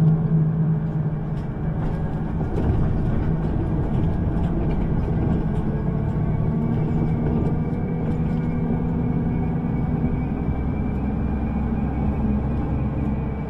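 Public-transport vehicle running between stops, heard from inside: a steady drive hum with a constant low rumble of the ride.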